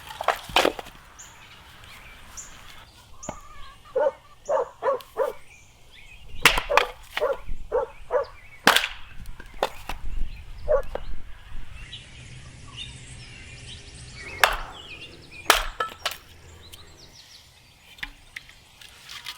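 An irregular series of sharp knocks and chops, some coming in quick runs of four or five strokes.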